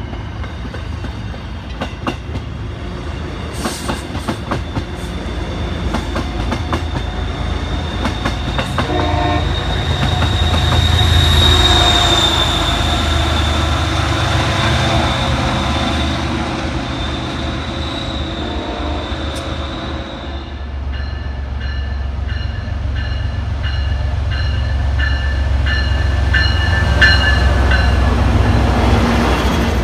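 MBTA commuter trains passing through a station. Wheels click and rattle over the rail joints, a train horn sounds about nine seconds in and again briefly later, then an HSP46 diesel locomotive passes close with a deep engine rumble while a bell rings about twice a second.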